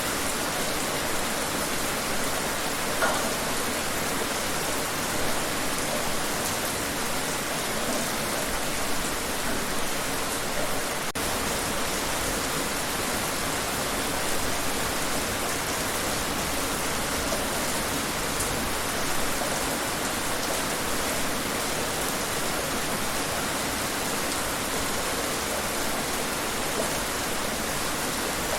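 Steady rain falling outdoors, an even hiss of rainfall with occasional louder drops.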